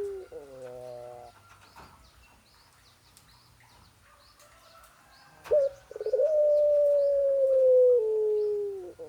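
A bird's long drawn-out call: a steady, clear tone that slides slowly lower for about three seconds, drops a step and ends in a quick falling stutter. The call is heard once in full after a sharp short note about halfway through, with the falling tail of the previous call at the very start. Faint high chirps of small birds can be heard behind it.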